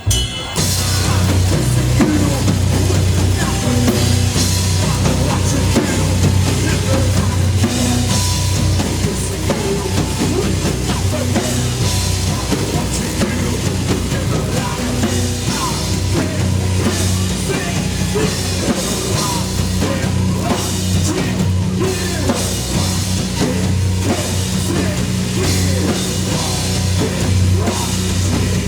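Live heavy rock band playing loudly: a driving drum kit over a heavy bass line, with keyboards in the mix. The music comes in suddenly at the very start and carries on without a break.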